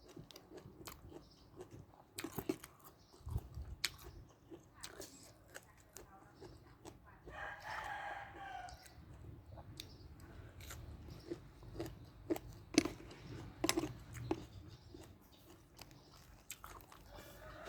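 Close-up chewing and crunching of spicy seafood papaya salad with raw lead tree leaves, with scattered crisp crunches and wet mouth sounds. A drawn-out call about a second long is heard a little past the middle.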